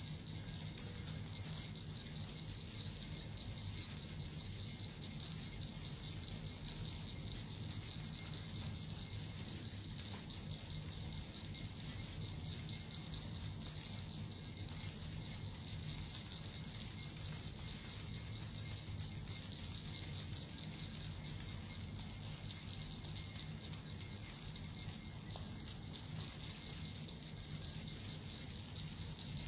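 Small suzu bells and a metal rattle shaken steadily, a continuous high jingling with no pauses.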